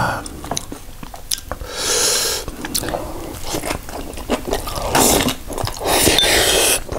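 Close-up crunchy chewing and biting of spicy cabbage kimchi eaten with rice. Rapid crunching clicks are broken by two longer noisy stretches of mouth sound, one about two seconds in and one from about five seconds to near the end.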